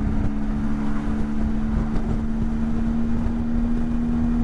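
Motorcycle engine running steadily at cruising speed, a constant drone, with low wind and road rumble on the rider's microphone.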